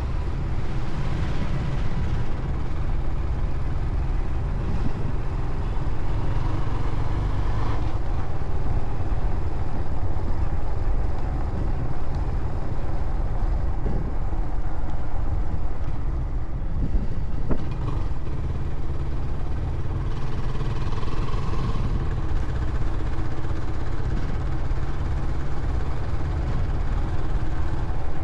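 A motorcycle running steadily while being ridden along, with a constant low rumble.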